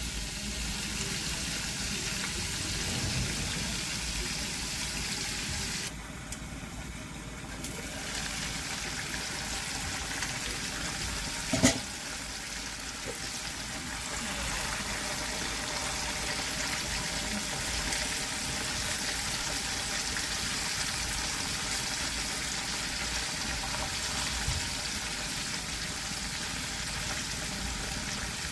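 Flour-coated chicken legs frying in hot oil, a steady sizzle that briefly dips about six seconds in. A single sharp knock, the loudest sound, comes a little before the halfway point.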